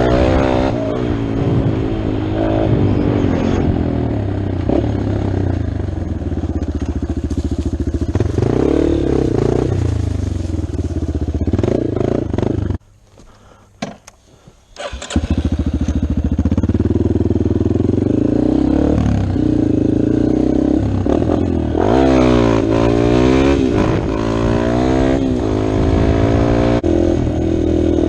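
Dirt bike engine revving up and down repeatedly while riding, its pitch rising and falling with the throttle. The sound drops away for about two seconds near the middle, then the engine picks up again.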